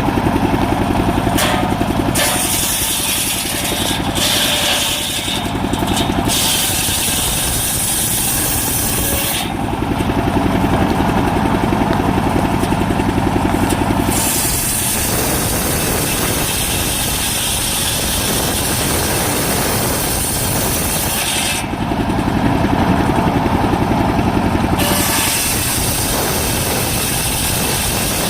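Engine of a mobile circular sawmill running steadily while the saw cuts a coconut palm trunk. A loud hiss covering the high range comes and goes, dropping out twice for a few seconds while the engine drone stands out.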